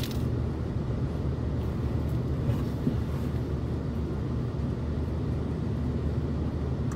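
Steady low hum of a car idling, heard from inside the cabin, with faint chewing sounds.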